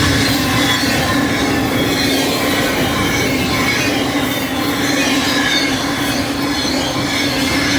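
Intermodal freight cars of a fast-running train rolling past. Wheels on rail make a steady, loud rumble with no letup.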